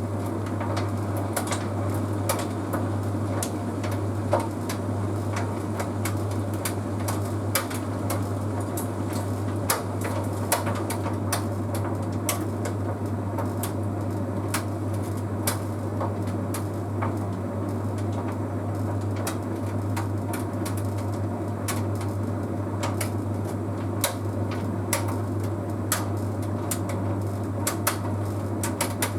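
Bosch Series 6 heat pump tumble dryer running mid-cycle: a steady low hum under the rumble of the turning drum, with irregular light clicks and knocks as the load tumbles.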